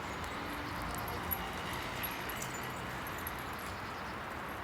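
Steady outdoor background hum with a few faint, high, short bird chirps about halfway through.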